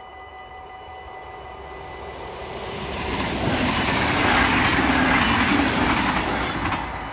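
NS double-deck passenger train passing over a level crossing: a rush of wheels on rail that builds over about three seconds, peaks, and falls away sharply near the end, with a few wheel clicks as the last cars go by. The crossing's warning bell rings steadily underneath.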